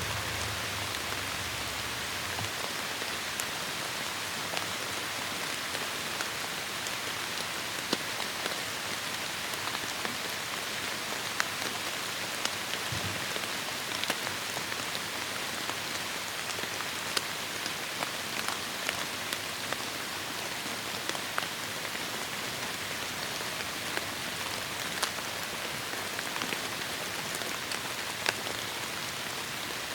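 Heavy rain falling steadily in a forest: a constant hiss of rainfall with many sharp individual drop hits scattered through it.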